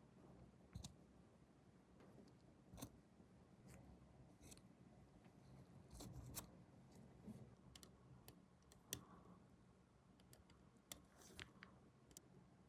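Faint, scattered light clicks and taps of small plastic model-kit parts and hobby tools being handled, about a dozen at irregular intervals over a faint low room hum.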